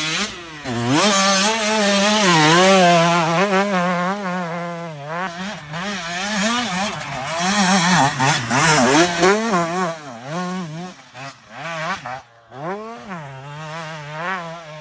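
Motocross bike engine revving up and down as the throttle is worked, its pitch rising and falling quickly over and over, easing off briefly a little after twelve seconds in.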